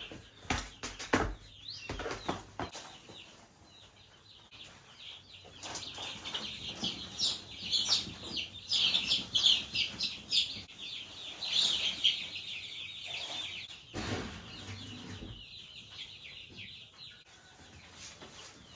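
Egg-layer chickens making a burst of flapping and knocks at the start, then a steady crowd of high chirping and peeping that fades out near the end.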